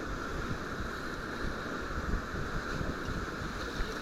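Steady rush of flowing river water around a raft, with wind buffeting the microphone in a ragged low rumble.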